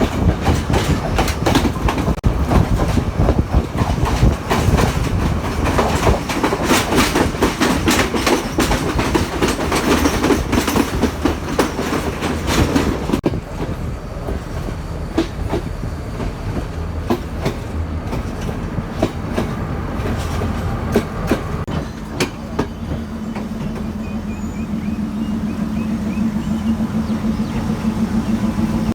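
Train running on the rails, its wheels clicking rapidly over rail joints above a loud rumble. About halfway through the sound changes abruptly to quieter running with only scattered clicks, and a steady low hum comes in during the last several seconds.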